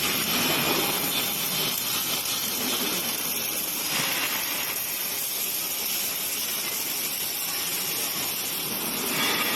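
Automated robot welding machine at work: a steady hissing noise that eases slightly in the middle and comes up again near the end.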